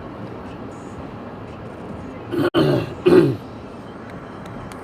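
A man clears his throat twice in short, loud, gruff bursts about halfway through, over the steady hiss of wind and rain in a storm.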